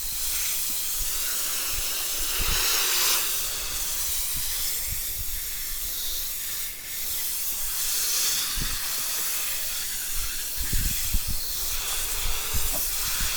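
Garden hose spraying water onto a fish-cleaning table to rinse it down, a steady hiss, with a few low bumps toward the end.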